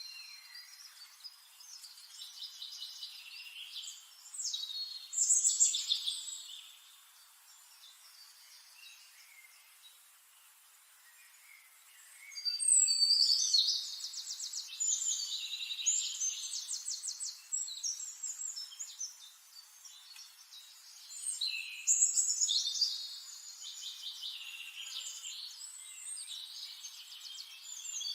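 Songbirds singing in bursts of quick high chirps and rapid trills. There is a lull of several seconds before the middle, then a loud run of trills.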